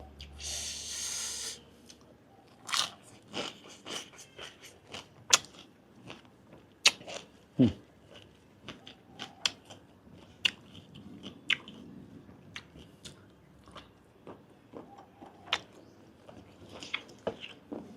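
Close-up chewing of grilled giant octopus tentacle: wet mouth clicks and smacks at an irregular pace. A brief hiss at the start.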